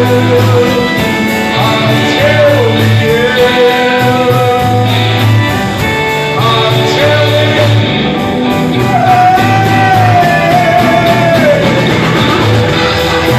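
Live rock band playing: guitar and bass under a wavering, held lead melody line, with a steady beat.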